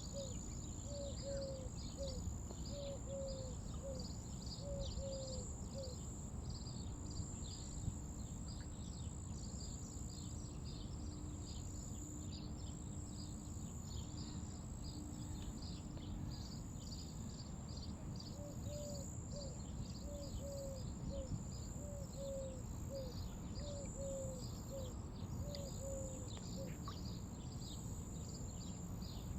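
Birds calling outdoors: a dense chatter of quick high chirps throughout, and a lower short call repeated about twice a second in two runs, one at the start and one from about two-thirds in. A steady low rumble of background noise lies under it.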